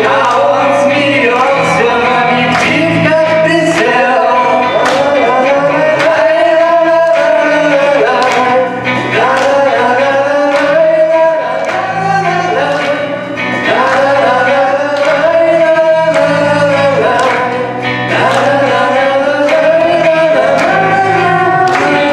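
Song with a male voice singing over a steady instrumental backing.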